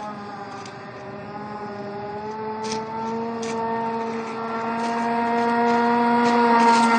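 Radio-controlled model boat's motor running with a steady whine, growing louder as the boat comes closer.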